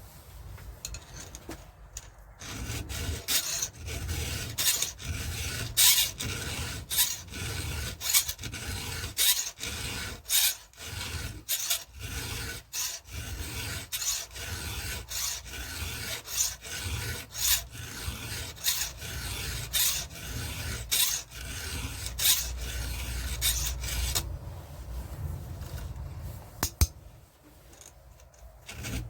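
Hand file rasping across the cutters of a Stihl MS 170 chainsaw chain in steady, even strokes, about one and a half a second, stopping near the end.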